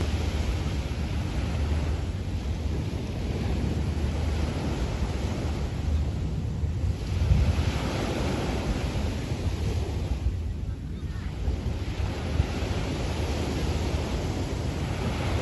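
Sea waves washing onto a beach, the wash swelling and fading every few seconds, with wind buffeting the microphone as a steady low rumble.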